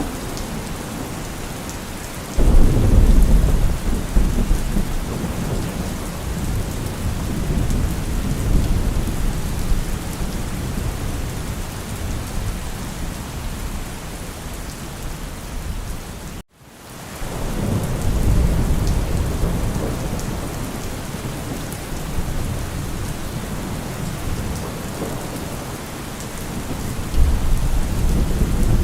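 Steady rain falling, with low rolls of thunder rumbling in three times. A little over halfway the sound cuts out for a moment, then swells back in.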